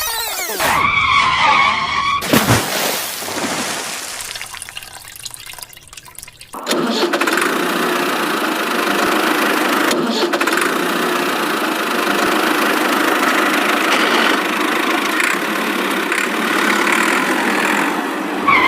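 A vehicle engine sound that starts suddenly about six and a half seconds in and then runs steadily. Before it comes a short warbling tone and a fading rush of noise.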